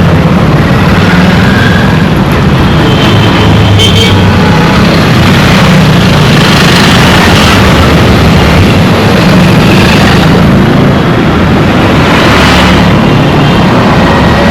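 Dense street traffic: many vehicle engines running together in a loud, steady din.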